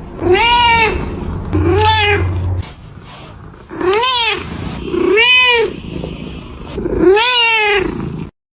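A domestic cat meowing five times, roughly a second and a half apart, each meow rising and then falling in pitch.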